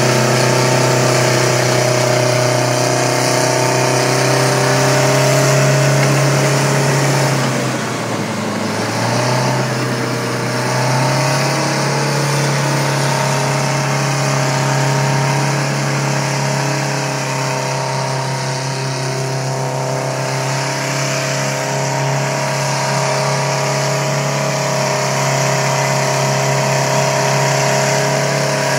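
Heavy diesel earthmoving machinery running steadily at working speed. About eight seconds in, the engine note sags in pitch and recovers over the next few seconds.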